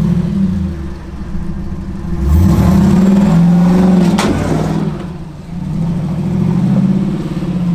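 Off-road Jeep engine revving up and easing off in surges while crawling over rock, with a single sharp knock about four seconds in.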